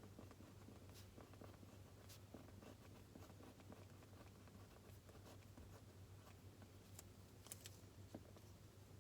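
Faint pen scratching on paper with a few light clicks and taps, over a low steady hum.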